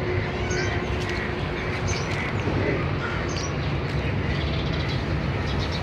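Steady low rumble with faint, scattered bird chirps.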